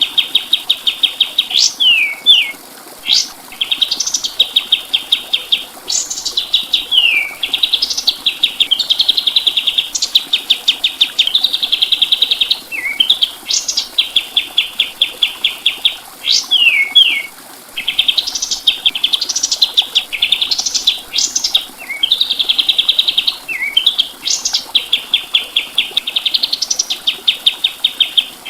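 Kapas tembak songbird singing continuously: phrase after phrase of fast rattling trills, broken by sharp upward sweeps and short falling slurs.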